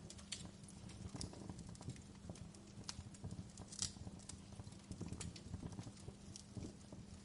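Fireplace crackling faintly: irregular sharp pops and snaps over a low rumble of the fire.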